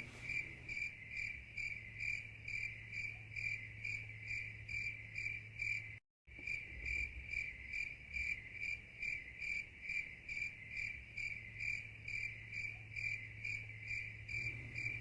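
Crickets chirping steadily in a regular pulse of short high chirps, about two to three a second, a night-time sound effect; it cuts out for a moment about six seconds in.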